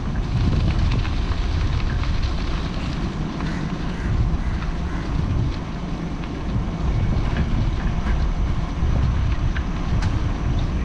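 Wind buffeting the microphone of a camera riding along on a moving bike: a loud, uneven low rumble that swells and eases.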